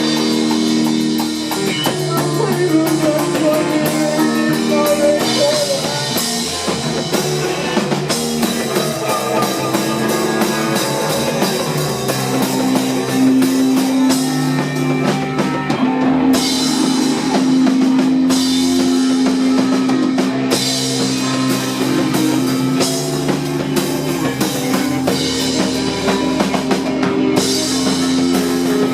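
Rock band playing live: drum kit with cymbals and electric guitar. A long note is held from about halfway through.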